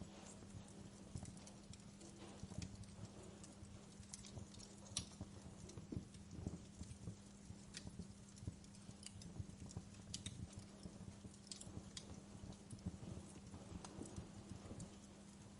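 Wood fire crackling in a fireplace: irregular sharp pops and soft low knocks, a few each second, over a faint steady hum.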